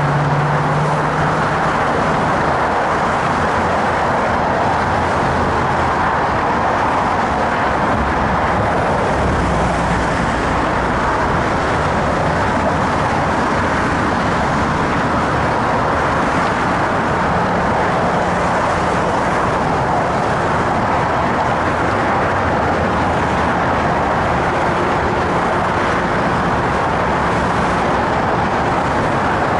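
Steady road traffic noise from cars crossing the bridge deck close by, a continuous wash of tyre and engine sound with no breaks.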